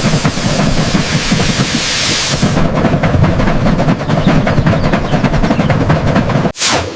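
Continuous dense mechanical rattling over a low rumble, cutting out abruptly near the end.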